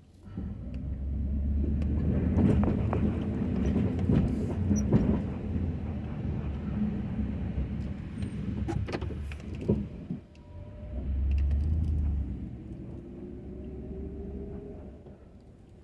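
Ford F-250 pickup engine running with a low rumble that swells twice, with scattered knocks and clatter. A faint rising whine comes in near the end.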